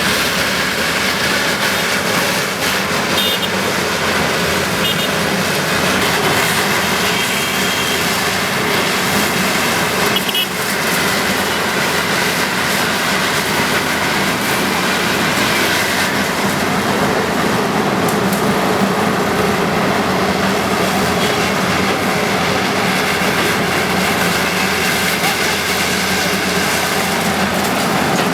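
Steady engine noise of heavy machinery such as a bulldozer running continuously, with a crowd's voices mixed in.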